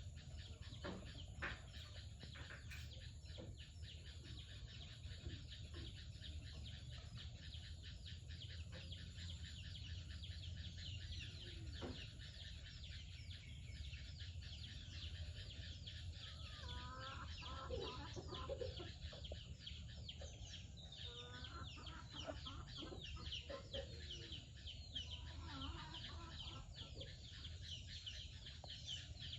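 Dense, continuous chirping of small birds, with lower clucking calls of village hens joining in about halfway through and a couple more times near the end, over a steady low hum.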